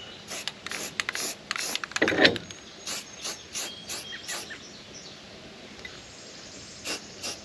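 An aerosol spray-paint can being shaken, its mixing ball clicking about three times a second, then two more clicks near the end.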